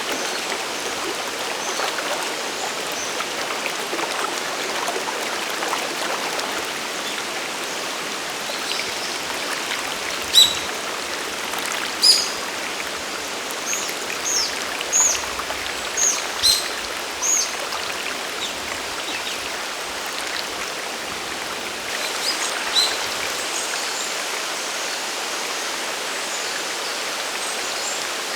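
Mountain stream and waterfall rushing steadily. About ten seconds in, a bird gives a run of short, high chirps, several in a row until about 18 s in, then two more near 22 s.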